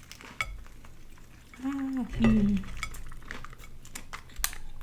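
Light clicks and clatter of tableware and food containers being handled at a meal, likely while sauce is being got ready. A short hummed voice sound comes about two seconds in.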